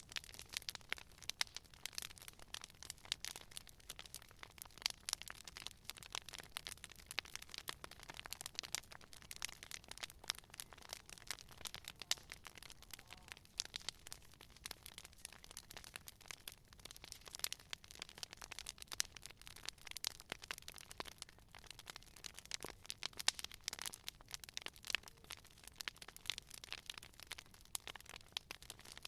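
Wood fire burning, with a steady stream of sharp, irregular crackles and pops over a faint hiss.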